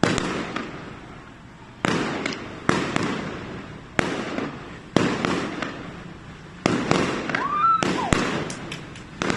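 Aerial firework shells bursting overhead: about nine sharp bangs, roughly a second apart, each trailing off in echo.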